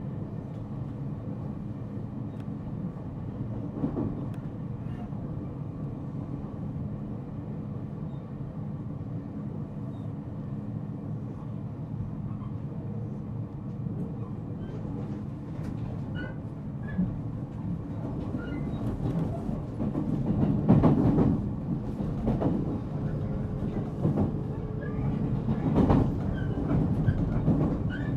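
Interior running sound of a JR Central 313-0 series electric train's motor car as it runs into its terminal station: a steady low rumble with wheels clicking over rail joints, getting louder with heavier knocks in the second half.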